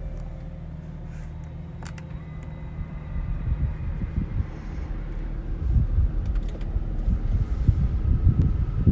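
2015 BMW 228i's turbocharged 2.0-litre four-cylinder engine running at a cold-start idle, a steady low hum that grows louder and rougher from about three seconds in.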